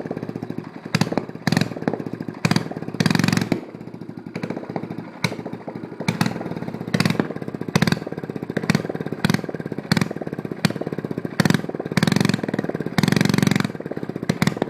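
Coleman CT200U mini bike's small single-cylinder engine, running with its muffler removed and loud: it idles with a rapid popping exhaust and is blipped up in a series of short revs.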